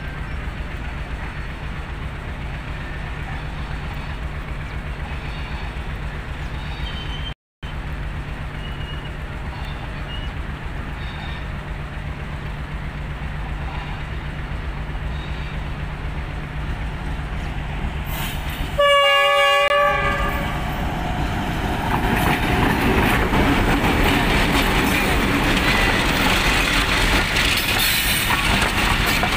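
Diesel-hauled passenger train approaching with a steady low engine drone. About two-thirds of the way through a horn sounds one short blast of about a second. The locomotive and coaches then pass close by, a loud rush with wheels clattering over the rail joints.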